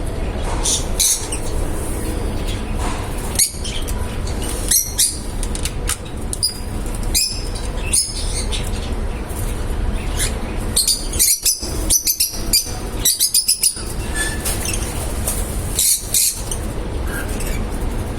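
Lovebirds chirping: many short, high, sharp calls in quick irregular runs, over a steady low background rumble.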